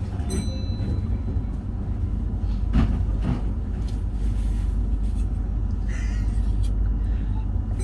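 A standing Meitetsu Panorama Super train at a platform with its doors open, giving a steady low hum from its onboard equipment. A couple of brief knocks come about three seconds in.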